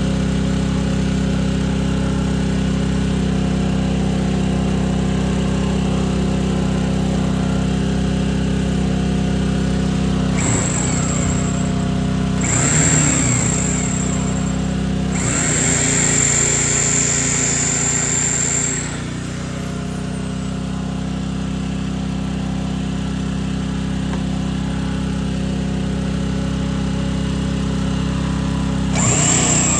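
A steady mechanical drone, like an engine or compressor running, carries on throughout. Over it, a high-pitched power tool such as a grinder whines up in two short bursts about ten seconds in, runs for about three seconds in the middle, and starts up again near the end.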